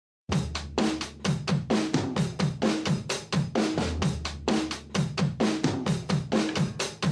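Drum kit playing a fast, steady beat on bass drum, snare and cymbals, starting suddenly just after the opening: the intro of a rock song.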